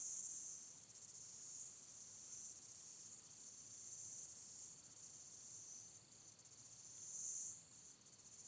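A faint, high-pitched insect chorus, the kind made by crickets, chirring steadily and swelling and fading about once a second.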